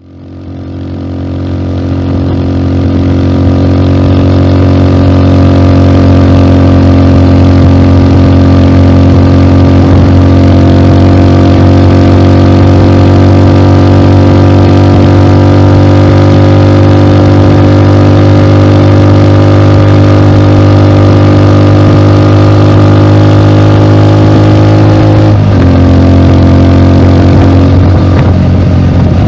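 Rusi Classic 250's single-cylinder engine idling steadily through an aftermarket bullet-style exhaust pipe on the stock elbow, fading in over the first few seconds. The idle drops slightly in pitch about 25 seconds in.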